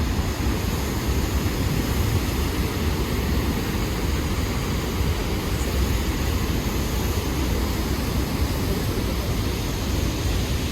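Niagara Falls' waterfall roar close by, a loud, steady rush of water.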